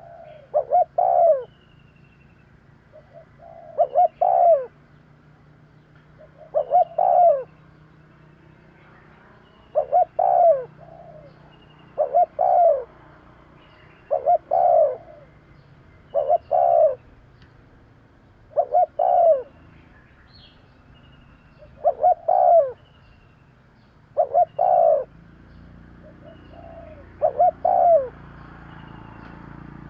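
Spotted dove cooing, a short phrase of two or three notes repeated about every two to three seconds, eleven times in all. Faint high chirps sound between the phrases.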